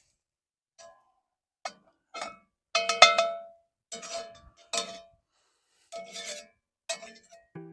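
Steel utensil knocking and scraping against a cast iron skillet while shortening is spooned into it: a string of ringing metallic clinks, the loudest about three seconds in.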